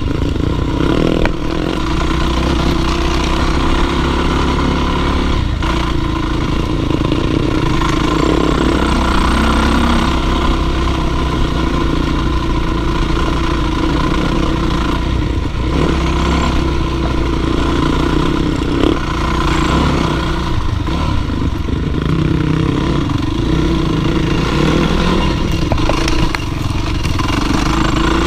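Dirt bike engine running continuously at a fairly steady pitch, with a few brief knocks.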